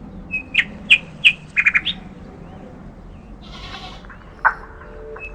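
Bird chirping: a handful of short, sharp chirps in quick succession over the first two seconds, then a single short chirp or click at about four and a half seconds, over a faint low hum.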